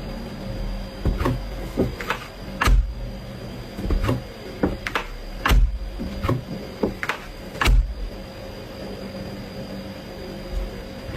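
A series of irregular knocks and taps, about a dozen, over a steady electrical hum.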